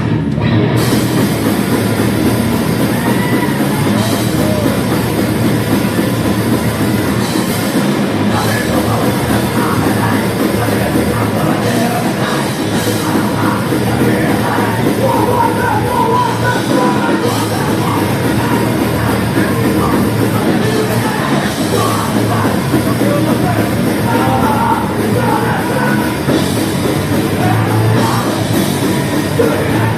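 Live thrash metal band playing, recorded from the audience: distorted electric guitars, bass and a drum kit at full volume.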